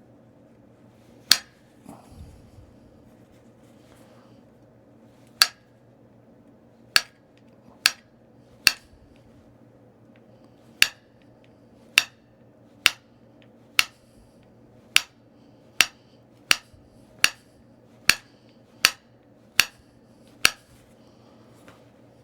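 Flint knapping: a percussion tool striking stone in sharp, short clicks, about seventeen in all, a few spaced out at first, then coming steadily about once a second through the second half.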